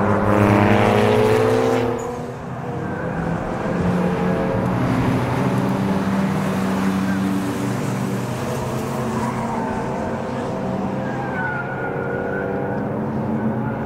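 Cars being driven hard through a race-circuit corner, engines and exhausts passing close by. The loudest pass comes in the first two seconds, with the engine note falling. Another car's engine follows, rising and falling in pitch as it goes through.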